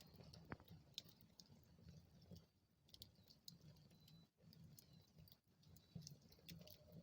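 Wood fire crackling faintly in a fireplace: scattered small pops and snaps at irregular moments over a low steady rumble.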